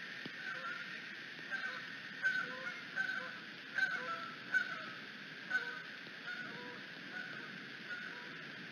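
A series of short, repeated bird calls, densest in the middle few seconds, over a steady hiss of wind and rain on the microphone.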